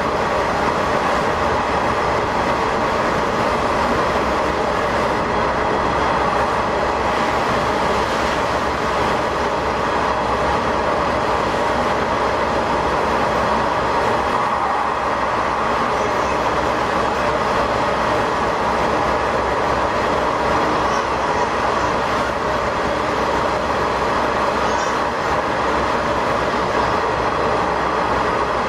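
Diesel railcar running steadily through a tunnel, heard from the driver's cab: an even rumble of engine and wheels on the rails.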